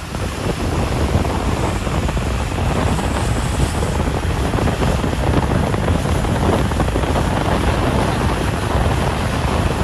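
Heavy truck running on the highway, a steady din of engine and tyre noise with wind buffeting the microphone.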